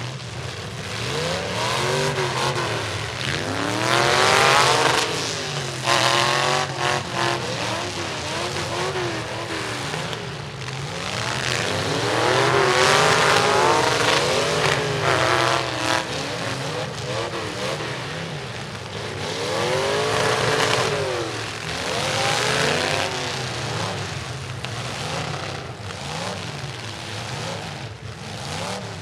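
Demolition derby trucks' engines revving hard and dropping back, several overlapping engines with big rising and falling revs about 4, 13 and 20 seconds in.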